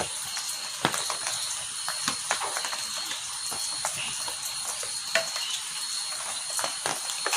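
Heavy rain falling steadily, with irregular sharp drops knocking close by. A steady high-pitched tone runs over it.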